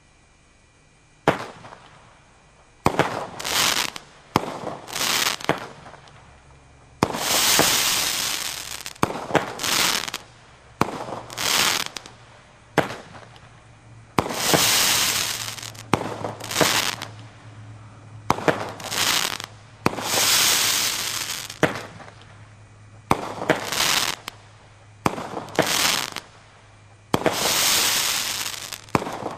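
Brothers consumer fireworks going off shot after shot, roughly one every one to two seconds at an uneven pace. Each shot is a sharp bang followed by up to a second and a half of crackling hiss.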